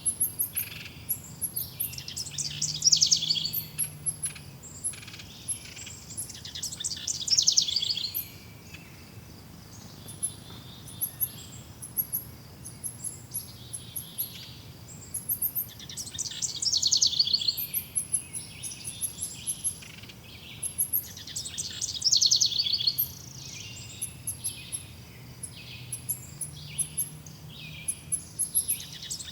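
Songbirds singing in a forest: one bird repeats a loud, rapid, trilling phrase of about a second and a half every few seconds, while other birds give short, thin, high chirps throughout.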